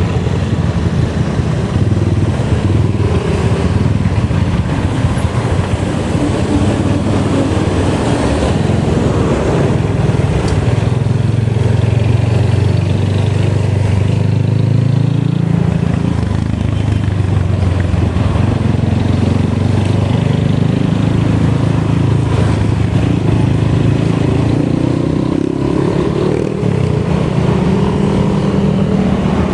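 Motorcycle engine running while ridden, its pitch rising and falling with the throttle and climbing again near the end, over steady wind and road noise.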